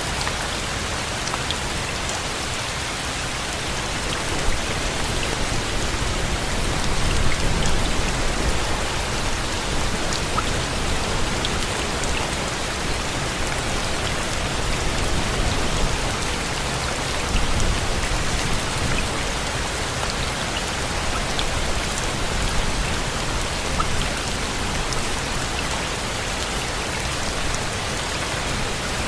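Steady rain falling on a surface, with scattered individual drop ticks. A low rumble swells up twice, about 7 and 17 seconds in.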